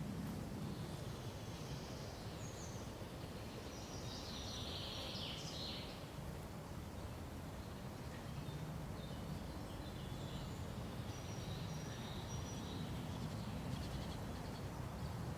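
Forest birds calling: short, high chirps and calls come in scattered clusters over the first few seconds and again later on. Beneath them runs a steady low background noise.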